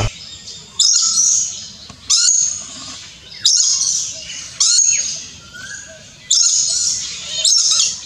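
Bird calls in about six short bursts, each starting sharply and fading away over about a second, with brief gliding notes under the high, bright part.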